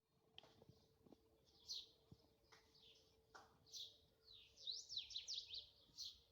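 Faint birds chirping: a string of short, high calls with quick sweeping notes that grow busier in the last couple of seconds, over a faint steady hum.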